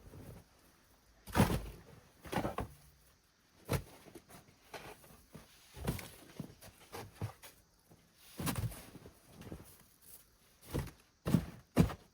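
Packed snow crunching and thudding in short, irregular strikes, one every second or two. The loudest comes about a second and a half in.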